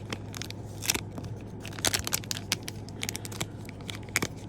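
Plastic packaging crinkling and small items clicking as the contents of a nail-art subscription box are handled, in irregular short rustles and taps over a steady low hum.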